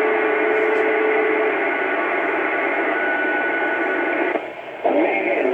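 Cobra 29 Chrome CB radio receiving a keyed-up transmission as loud static with a steady whistle that stops about a second and a half in. Near the end the noise drops out briefly and a garbled, distorted voice comes through, which the operator puts down to a station running a power mic turned up too high.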